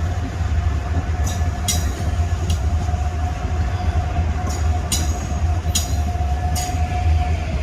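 Train running close by: a steady low rumble with a held whine that drops in pitch near the end, and irregular sharp clicks over it.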